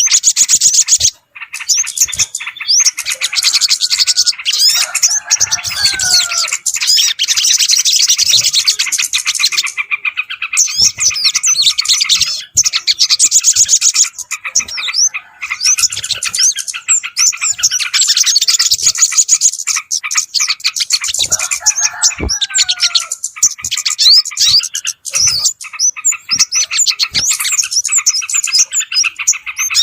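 Bird-lure recording of a dense chorus of small birds chirping rapidly and continuously, played to draw in yellow-vented bulbuls and other small birds. Twice, about five seconds in and again past twenty seconds, a lower whistled call slides downward under the chirping.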